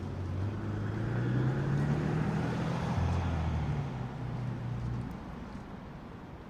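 A motor vehicle passing by: its engine and road noise swell to a peak about two to three seconds in, then fade away by about five seconds.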